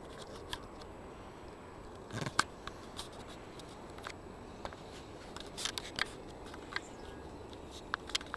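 Scattered clicks and short rustles of a hand-held camera being handled, over a steady low background hiss.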